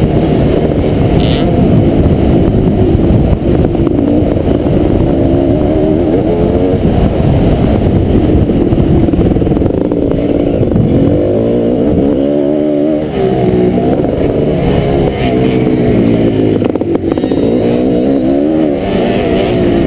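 Kawasaki KX500 single-cylinder two-stroke motocross engine racing, the revs climbing and dropping over and over as the bike accelerates and backs off, with strong rising and falling sweeps around the middle and near the end.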